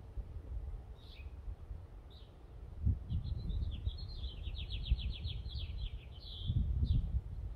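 Small birds chirping, with one rapid trill of about a dozen quick notes in the middle, over a low rumbling noise that swells about three seconds in and again near the end.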